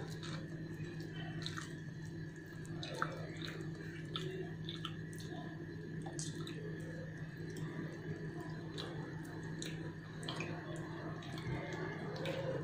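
Close-miked chewing of a handful of rendang and rice, eaten by hand: many small wet mouth clicks and smacks. A steady low hum runs underneath.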